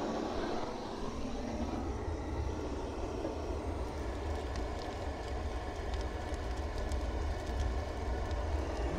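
Handheld gas torch on a gas canister burning with a steady rushing flame noise as it lights bark and kindling in the stove's firebox; it cuts off near the end.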